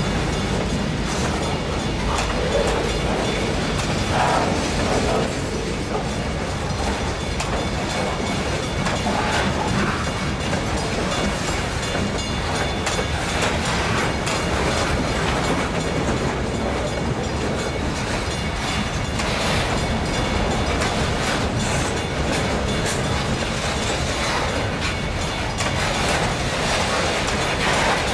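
Freight cars rolling steadily past on the track: a continuous noise of steel wheels running on the rails, with scattered clicks as the wheels cross the rail joints.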